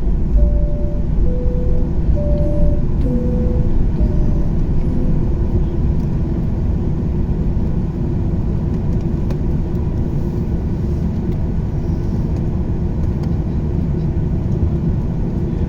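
Steady engine and airflow rumble of a Boeing 737-800 with its CFM56-7B engines, heard from inside the cabin. A short run of alternating two-pitch tones sounds over it in the first few seconds, and the level eases a little about halfway through.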